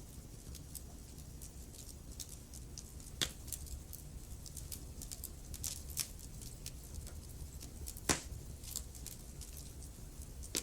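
Wood fire crackling in a fireplace: frequent small sharp crackles over a low steady rumble of the flames, with two louder pops, about three seconds in and about eight seconds in.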